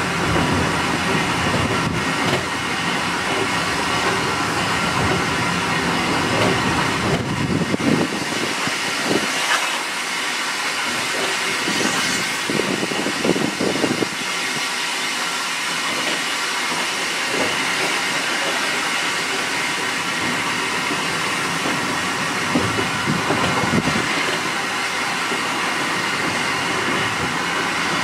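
Railway train running over jointed track, its wheels clicking and rumbling, with steady rain noise. The heavy low rumble drops away about eight seconds in.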